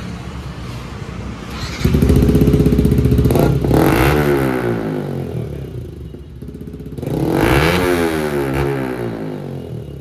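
Yamaha R15 V4's single-cylinder engine running through an aftermarket full-system exhaust with an Akrapovič-style muffler. It idles, then is revved hard twice, about two seconds in and again about seven seconds in, each time falling back toward idle.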